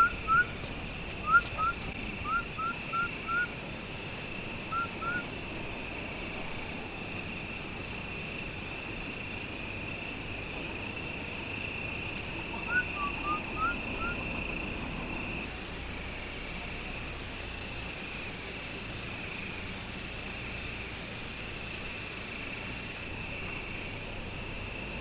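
Steady outdoor chorus of crickets, a continuous shrill trilling. It is joined near the start, and again about 13 seconds in, by quick series of short, rising chirps.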